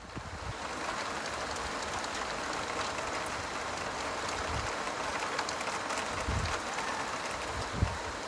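Steady rain falling, with individual drops ticking close by, and a few brief low bumps.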